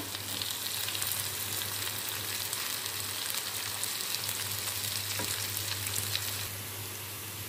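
Chopped okra sizzling and crackling in hot oil with onion-tomato masala while a spatula stirs and scrapes it through the pan. The frying gets a little quieter about six seconds in.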